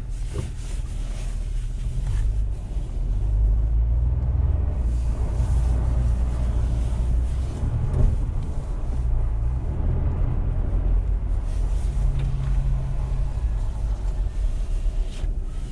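Toyota Tacoma pickup's engine pulling up an icy driveway in four-wheel drive: a steady low rumble that shifts slightly in pitch, with one brief knock about eight seconds in.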